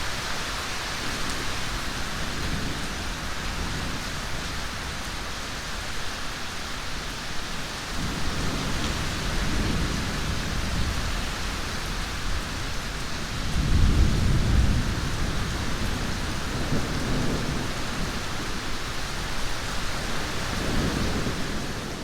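Steady heavy rain with rolling thunder: several low rumbles swell up over the even hiss of the rain, the loudest and longest a little past the middle.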